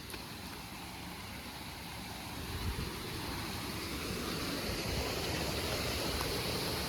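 Steady rush of flowing stream water, growing gradually louder.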